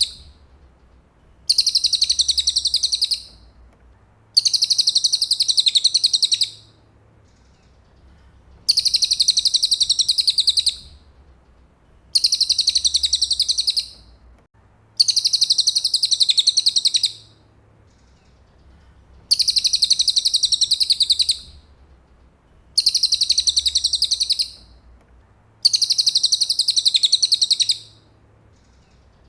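Cililin bird singing: high, rapid trilled phrases about two seconds long, repeated eight times with short pauses between them.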